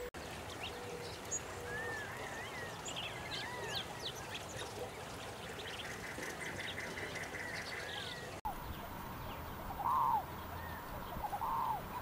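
Birdsong: assorted short chirps and whistles, then a cactus wren's rapid, even, harsh chatter lasting about two seconds. After a cut, two loud nasal calls, a second and a half apart, near the end.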